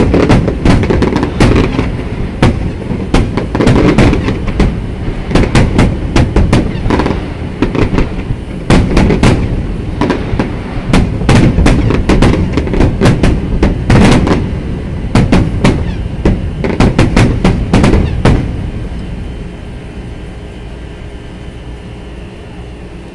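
Aerial fireworks shells bursting in rapid succession, a dense run of sharp bangs and crackles. About three-quarters of the way through the bangs stop and the sound fades away.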